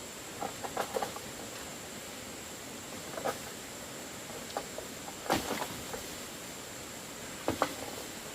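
A few short clusters of light knocks and clicks every second or two, the loudest a little past halfway, over a steady hiss.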